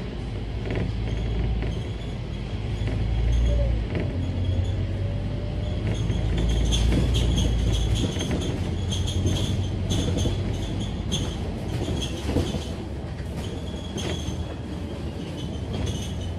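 Scania K310UD double-deck bus running, its engine's deep drone dropping away about eight seconds in, with rattling clicks and an on-and-off high-pitched squeal from about six seconds on.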